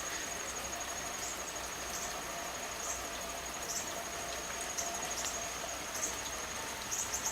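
A steady high-pitched cricket-like insect trill, with short scattered chirps from sparrows about every second.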